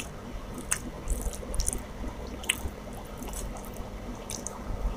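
Close-miked eating sounds: wet chewing and lip-smacking on rice and chicken curry, heard as short, irregular clicks.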